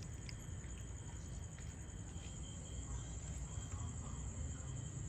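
Steady high trill of night insects, with a second, lower trill joining about two seconds in, over a low background rumble.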